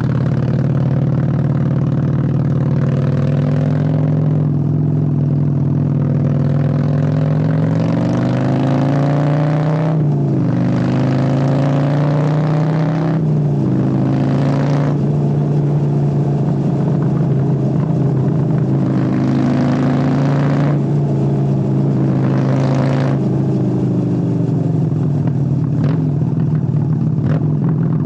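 Honda Steed 600 V-twin engine pulling under way, revs climbing and dropping at two gear changes about ten and thirteen seconds in, then running at a steadier speed with small rises and falls in revs.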